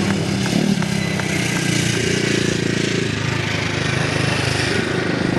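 Vintage racing motorcycle engines running at speed: a continuous rasping engine note that shifts in pitch.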